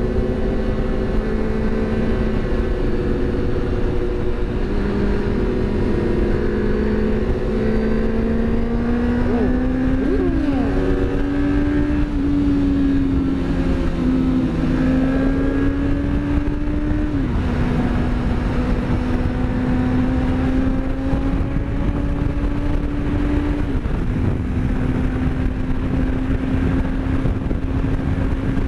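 Motorcycle engine running at cruising speed under strong wind rush. The engine note rises about ten seconds in and drops back a few times later, as with throttle and gear changes.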